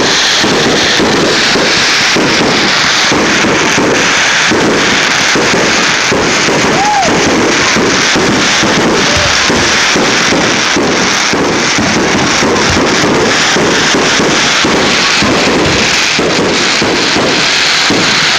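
Dense fireworks barrage: a continuous rapid run of bangs and crackling, several reports a second, loud throughout.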